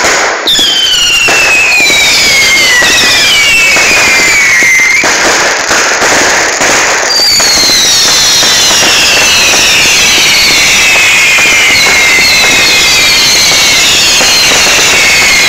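Fireworks letting off many shrill whistles at once, each falling in pitch, over a continuous crackle. A first volley of whistles starts about half a second in and fades near five seconds; a second volley starts about seven seconds in and runs on.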